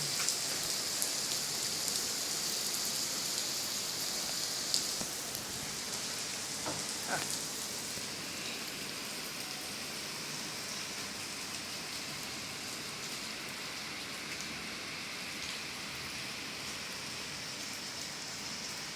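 Steady rain falling, an even hiss that eases slightly after about five seconds. Two brief faint tones sound about seven seconds in.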